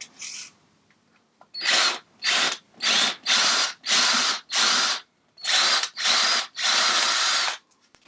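Power drill run in about eight short bursts, starting a second and a half in, drilling out the heads of the rivets that hold the carbon fibre end cap on an Akrapovic titanium motorcycle silencer; some of the rivets spin in their holes instead of cutting. The last burst is the longest.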